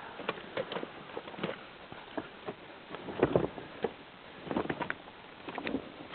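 Irregular crunching steps and knocks of someone moving over snow and loose rock, with louder clusters about three seconds in and near the end.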